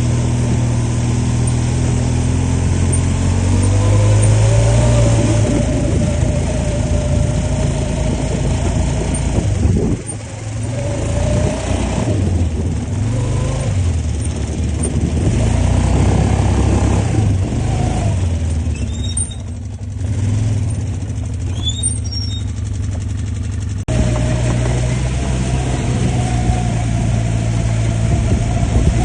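ATV engine running under way, its pitch rising and falling as the throttle is opened and eased off, with a brief dip in engine sound about ten seconds in.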